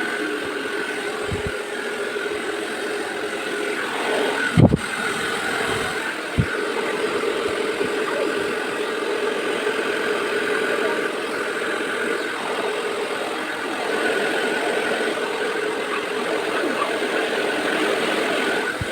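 A steady machine hum with a constant pitch, broken by two short thumps about two seconds apart.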